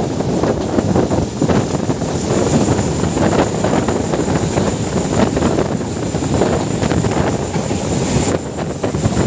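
Meter-gauge passenger train running along the track, heard from a coach side: steady wheel-on-rail rumble with irregular clatter and rattling, mixed with wind buffeting the microphone.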